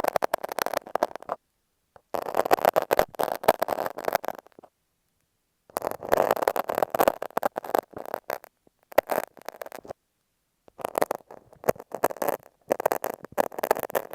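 A utility knife and masking tape rubbed and scraped against an earphone microphone, very close and crackly. It comes in five bursts of a second or two each, with short silences between.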